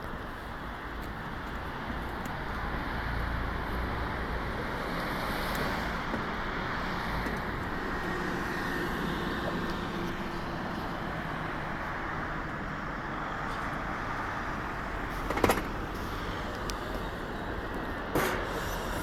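Steady outdoor rumble like road traffic, with two sharp knocks about three seconds apart near the end.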